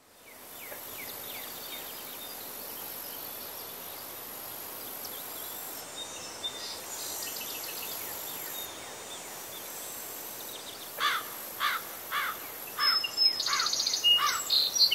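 Outdoor rural ambience fading in, with a steady high insect hiss. About two-thirds of the way in, a bird starts calling with a run of short notes, each sliding down in pitch, about two a second.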